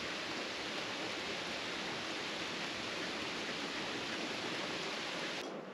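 Steady rain falling on a wooden deck, an even hiss that cuts off near the end.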